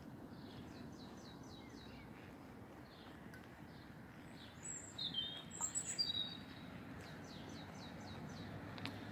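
Small birds singing: series of quick, descending high chirps, with a louder, nearer burst of calls around the middle, over a low steady background rumble.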